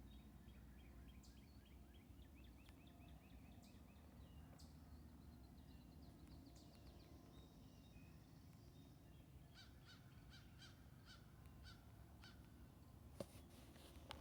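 Faint birds calling: quick chittering trills in the first few seconds, then a run of evenly repeated short call notes, about two to three a second, over a low steady rumble. A single sharp click near the end.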